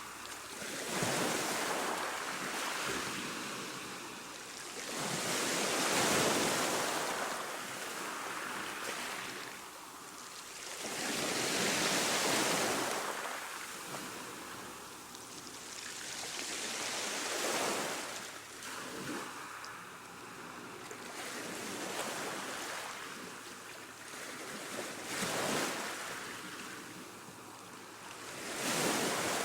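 Ocean waves surging and washing in, each swell building and fading about every five to six seconds.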